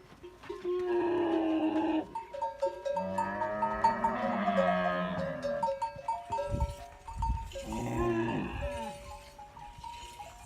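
Camels calling: three long calls whose pitch bends, the middle one the longest, with a low rumble between the second and third. Background music with a stepped melody plays throughout.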